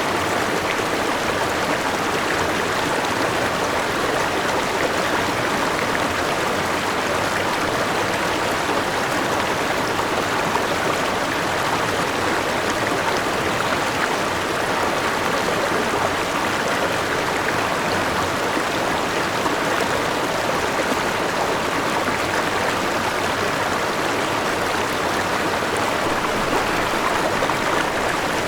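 A forest river and small waterfall rushing and splashing steadily.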